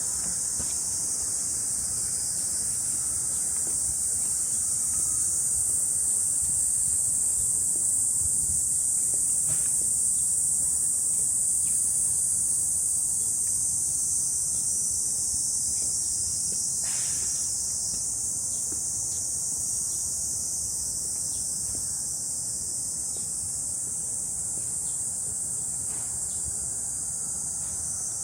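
A dense chorus of summer cicadas buzzing steadily and high-pitched, swelling slightly in the middle, with a few faint taps underneath.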